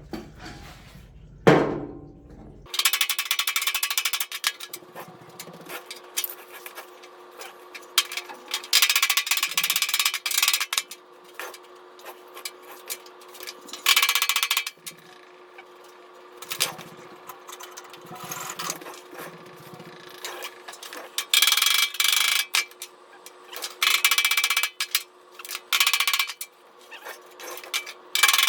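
Bursts of rapid hammering on the sheet-steel body panel of an Austin Healey 100-4's rear shroud, about six runs of quick strikes, each a second or two long, with short pauses between. A faint steady hum runs underneath.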